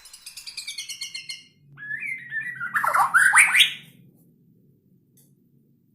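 White-rumped shama (murai batu) singing: a rapid run of high notes for about a second and a half, then louder whistled phrases that slide up and down, ending about four seconds in.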